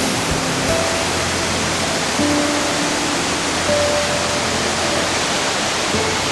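The Golling waterfall's mountain torrent rushing with a steady, loud, full roar. Soft background music of long held notes sits over it.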